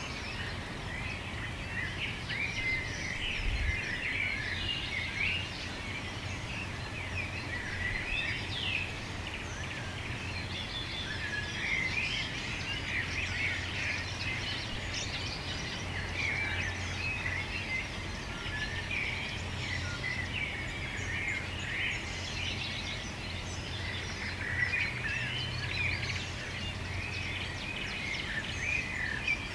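Many birds chirping and singing at once, a dense continuous chorus of short overlapping calls, over a steady low rumble.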